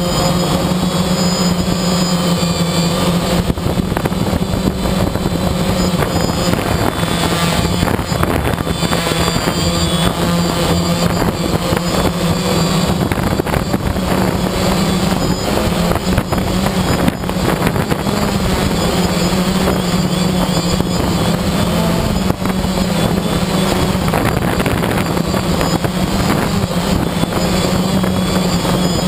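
Quadcopter's electric motors and propellers running steadily in flight, a loud constant buzz with a strong low hum that wavers slightly in pitch now and then.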